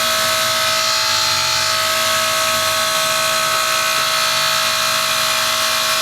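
Outdoor unit of a 2004 Carrier 3-ton heat pump with a reciprocating compressor running steadily at the close of a short defrost cycle. It makes a constant hum with a steady whine over it.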